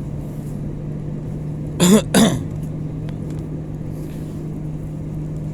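Steady drone of an airliner cabin in flight, with a person coughing twice in quick succession about two seconds in.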